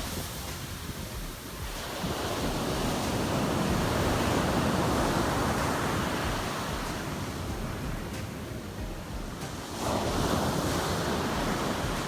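Heavy sea surf breaking and washing on a beach, with wind on the microphone. The wash swells about two seconds in and again near ten seconds.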